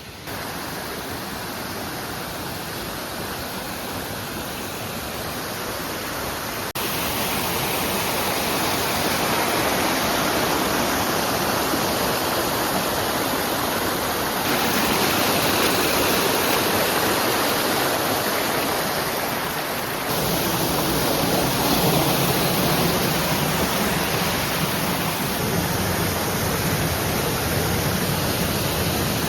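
Steady rush of mountain stream water cascading over rock, stepping up in loudness abruptly a few times.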